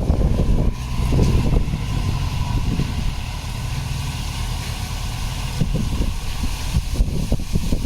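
Heavy diesel engine of earthmoving machinery running steadily with a low rumble, a faint steady whine above it, and a few short knocks in the latter half.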